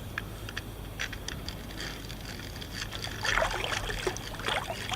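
Water splashing and dripping around a kayak, with short irregular splashes and drips that are busiest from about three seconds in.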